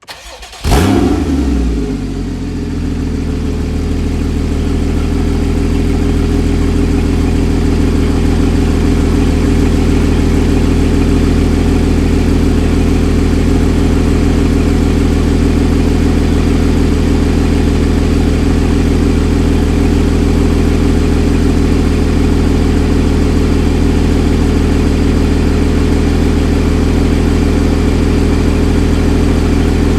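Porsche Cayman S 3.4-litre flat-six with sports exhaust starting up under a second in, the revs flaring briefly, then settling into a steady idle.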